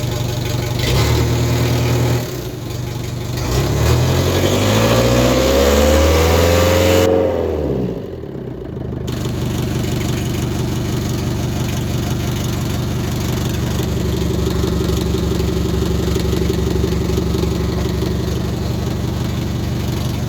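Ford Transit 2.5 engine running just after starting from long storage. It is revved once, rising in pitch for a few seconds and dropping back about seven seconds in, then settles into a steady idle.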